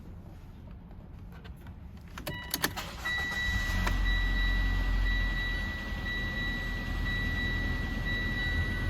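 Mitsubishi Galant Fortis's 1.8-litre 4J10 naturally aspirated inline-four being started: a few sharp clicks, then about three seconds in the engine catches and settles into a steady idle. A high electronic tone sounds over it with short breaks.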